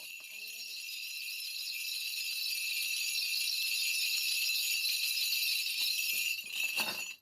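A Korean shaman's cluster of brass ritual bells (mugu bangul) shaken continuously in a spirit divination, a steady high jingling that grows louder over the first few seconds and then stops suddenly near the end.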